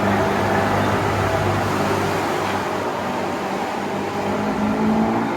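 Motorboat engines running as a boat passes through the inlet: a steady drone whose pitch edges up slightly near the end, over a rush of wind and water.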